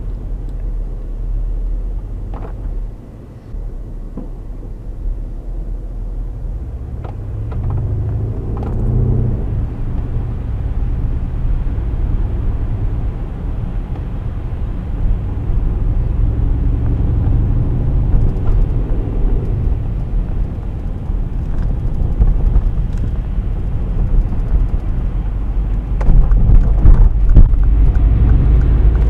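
Mercedes-Benz GL 63 AMG's 5.5-litre twin-turbo V8 and tyres running steadily as the SUV is driven, a low rumble throughout. The engine note rises twice as it accelerates, about a third of the way in and again past the middle, with a few short knocks and a louder stretch near the end.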